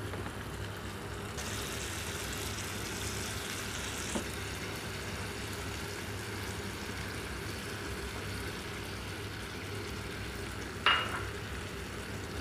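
Shrimp and vegetable stir-fry sizzling steadily in a frying pan, with a single metallic clink about eleven seconds in.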